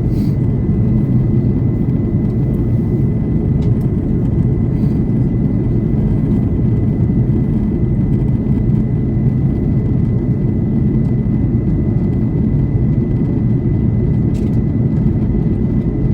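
Steady cabin noise of an Airbus A330 airliner in flight on its descent, a deep even rush of engine and airflow noise with a faint steady high whine above it.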